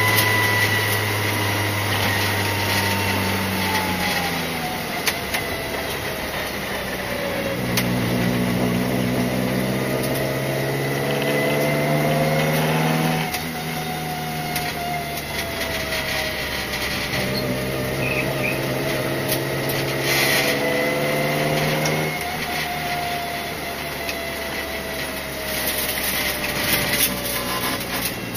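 Haima Family race car's engine heard from inside the cabin under hard track driving, its note rising and falling and stepping in pitch several times as the car accelerates, lifts and changes gear, over steady road and tyre noise. A thinner whine falls in pitch over the first several seconds.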